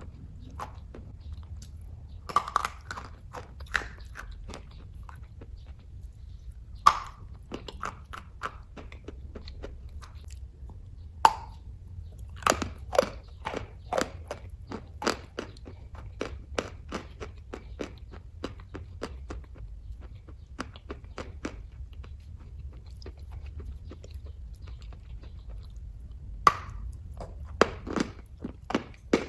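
Close-up chewing of kaju katli (soft cashew fudge), with frequent wet mouth clicks and smacks and a few sharper, louder ones, over a steady low hum.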